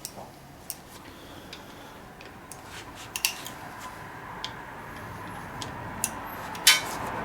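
Irregular sharp metallic clicks and clinks of hand tools and parts being handled on an engine, with a louder short rattle about two-thirds of the way in.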